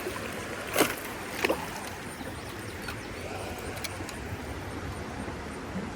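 Small fish being landed from a creek: two brief sharp sounds in the first second and a half, then a steady rushing background noise.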